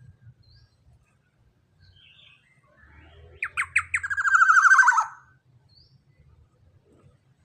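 Young black-naped oriole (kepodang) calling: three quick downward notes about three and a half seconds in, then a loud, rapidly pulsed call of about a second that falls slightly in pitch. Faint chirps come before and after.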